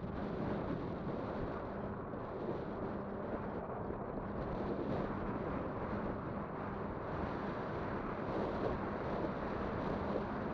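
Wind buffeting the microphone and tyre rumble from a moving e-bike, with a faint steady low hum running under it.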